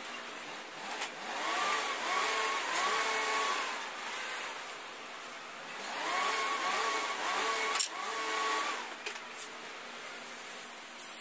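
A handheld power tool's motor spinning up again and again in short trigger pulls, in two bursts of about two seconds each, with a sharp click near the end of the second burst.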